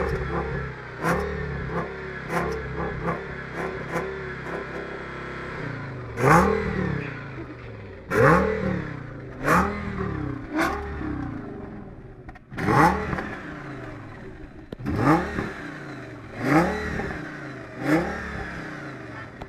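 Audi S8's V10 engine at idle, blipped in short revs over and over, each rev rising quickly and falling back. The revs come about a second apart at first, pause for a few seconds of steady running, then resume every one to two seconds.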